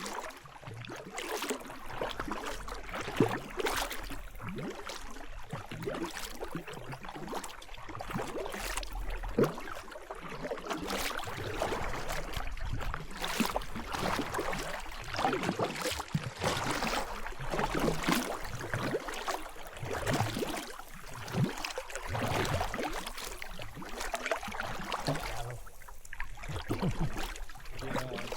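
Kayak paddle strokes dipping and splashing into river water in a steady rhythm, about one stroke a second, over a constant wash of moving water.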